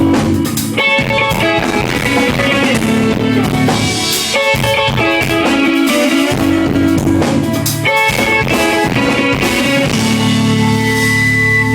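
A live rock band playing, with interlocking picked electric guitar notes over a drum kit.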